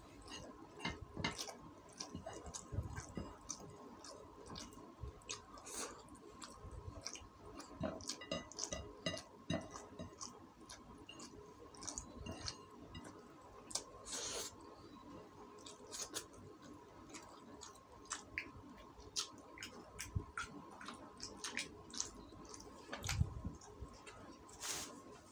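Close-up eating sounds: wet chewing and lip smacks, with light clicks of fingers picking rice from a ceramic plate. A few louder knocks are mixed in, one near the end.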